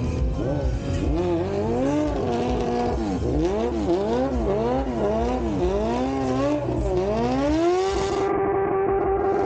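Streetfighter motorcycle engine revved up and down in quick repeated blips, then wound up and held at high revs near the end.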